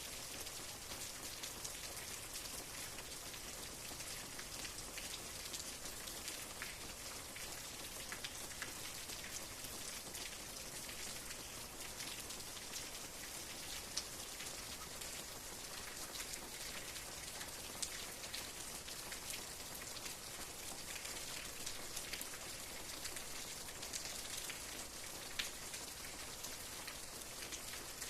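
Steady rain falling, an even hiss with many individual drops ticking through it and a few louder, closer drops now and then.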